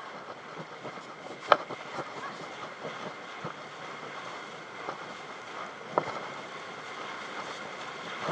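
Wind rushing over the microphone and water noise while riding at speed on a tow behind a jetski. Sharp knocks come about a second and a half in and again about six seconds in.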